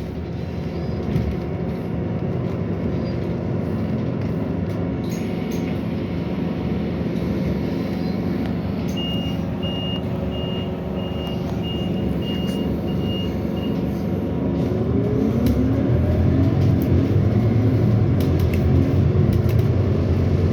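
Inside a Scania Citywide 12LF CNG city bus: the gas engine idles at a stop, and about halfway through a warning sounds as about nine short high beeps, two a second. The beeps are typical of the doors closing. The engine then revs up with rising pitch as the bus pulls away.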